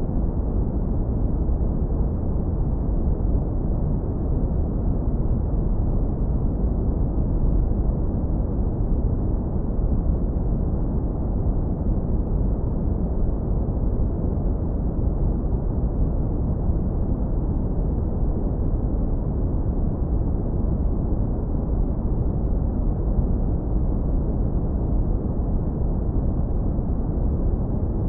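Steady brown noise, low-passed hard to a deep, warm rumble with almost nothing above the bass.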